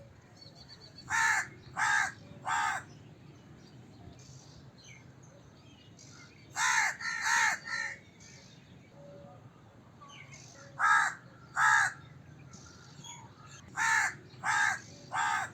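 Crow cawing in four bouts of two or three short caws each, the bouts a few seconds apart.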